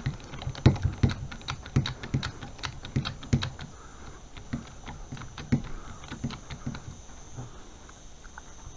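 Hand-pumped hydraulic crimping tool being worked, a run of irregular clicks and clacks a few times a second as it closes a crimp die on a cable lug. The clicks thin out and stop about seven seconds in.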